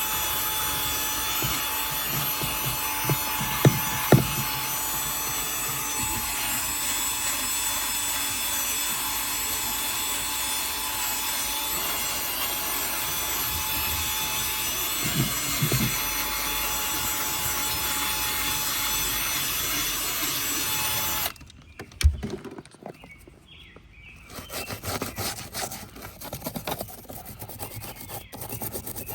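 An electric cleaning machine's motor runs steadily with a whining hiss, then cuts off suddenly about 21 seconds in. A single thump follows, then quieter, irregular scrubbing and rubbing on the car's interior surfaces.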